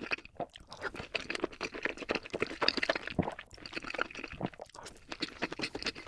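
Close-miked chewing of crispy sweet Korean fried chicken, sped up to double speed: a rapid, dense run of crunching and crackling bites.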